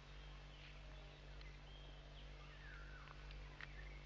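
Faint outdoor bird calls: scattered short chirps and a few falling whistles, the clearest about three seconds in, over a steady low hum and hiss.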